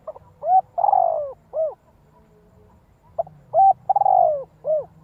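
Spotted dove singing its cooing song: two phrases about three seconds apart, each a couple of short coos, then a longer, louder coo that falls in pitch, then a short closing coo.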